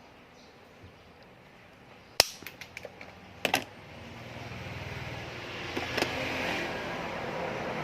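Sharp clicks and taps of small fishing-reel parts being handled: one loud click about two seconds in, a quick run of lighter ones, then a louder double click. From about four seconds a steady engine-like rumble swells up in the background.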